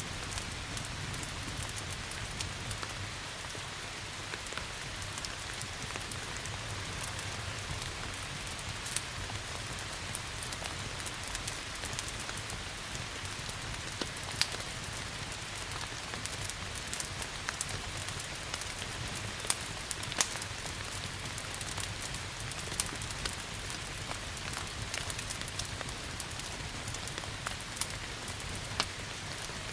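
Steady rain hiss with scattered sharp pops and crackles from a wood fire.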